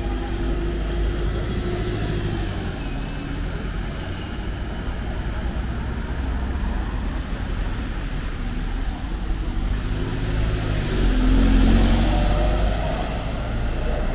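A railway train running with a steady low rumble that swells to its loudest about eleven seconds in, as if drawing nearest.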